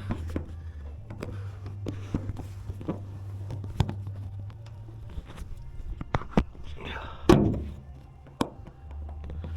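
Scattered knocks and clicks from hands working around the car, over background music from a radio.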